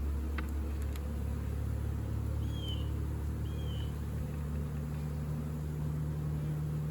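Steady low hum of honeybees around the hive, with two short high bird chirps about halfway through.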